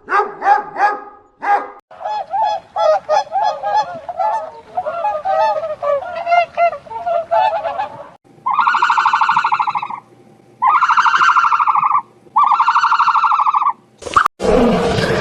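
A run of different animal calls: a few more dog barks at the start, then many short, quick calls wavering in pitch for about six seconds, then three long, even calls of about a second and a half each, with a different loud call cut in near the end.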